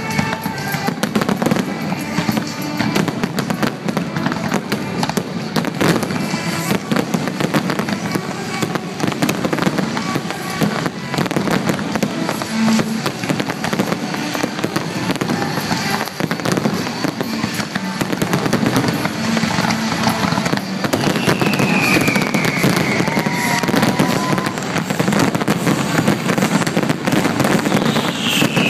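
Fireworks display in full barrage: a dense, continuous run of crackling and bangs. Twice in the second half a falling whistle cuts through.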